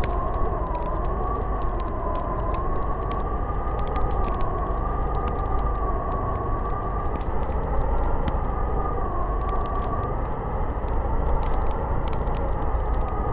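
Snowstorm wind howling with a wavering, whistling tone that slowly rises and falls, over a steady low rush of wind, with faint scattered ticks.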